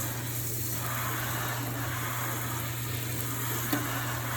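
Water running steadily from a kitchen tap into a sink, an even hiss, with a single short click about three and a half seconds in.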